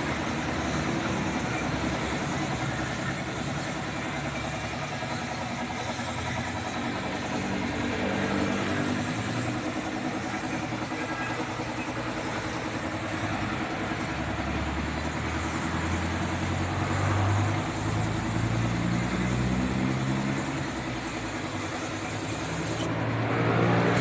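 A steady spray hiss, as from a paint spray gun, over a running engine. The engine's pitch shifts and it grows louder in the second half.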